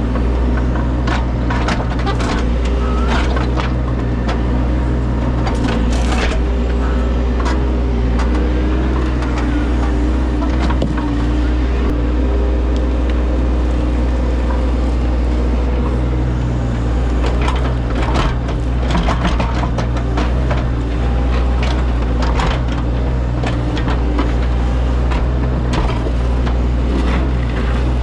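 Engine of a piece of equipment running steadily at a low hum, with repeated crunching and clattering of stone or soil.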